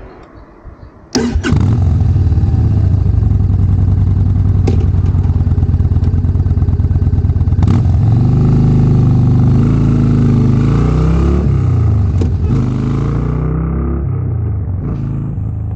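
Yamaha Bolt's air-cooled V-twin engine starting about a second in, then running with a steady low beat, its pitch rising and falling a few times in the second half as it is revved.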